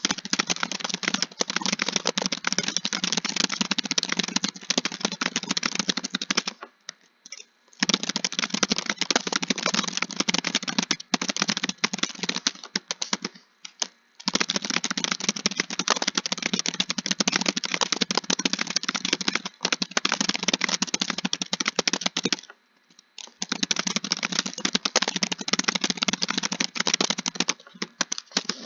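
Typing on a computer keyboard: fast, continuous runs of keystrokes, broken by three short pauses of about a second.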